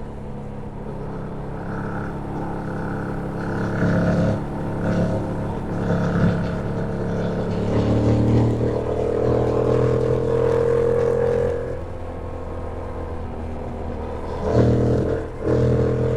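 2025 Yamaha MT-07's parallel-twin engine running under way: revs climb steadily for a few seconds, drop off about twelve seconds in as the throttle closes, then rise and dip briefly near the end.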